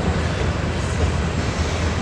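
A freight train passing close by: a steady low rumble with a rushing noise over it.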